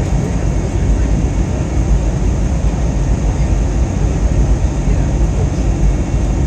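Steady low rumble of an airliner's engines and rushing air, heard from inside the cabin during the climb-out.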